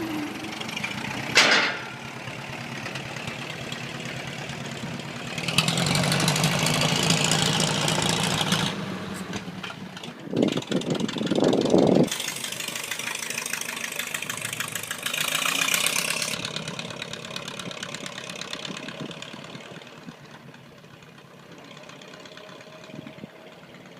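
Ford Model TT's four-cylinder engine running, swelling louder twice as the truck gets under way, then fading as it drives off. A loud short burst of sound cuts in about ten seconds in.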